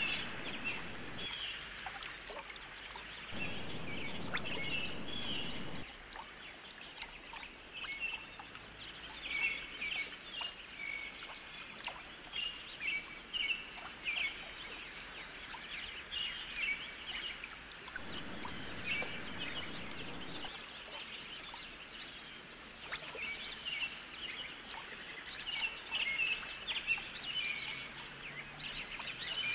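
Outdoor chorus of many short, high chirping animal calls, repeating all through, with two spells of low rushing noise, one a few seconds in and one about two-thirds of the way through.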